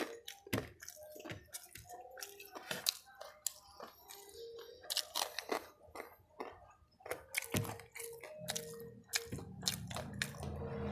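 A person chewing crispy fried chicken close to the microphone, with many sharp, irregular crunches and wet mouth clicks. A low rumble comes in about eight seconds in.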